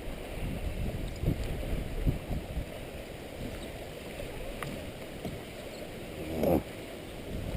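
Water moving around a kayak: low, uneven sloshing with a louder swell about six and a half seconds in.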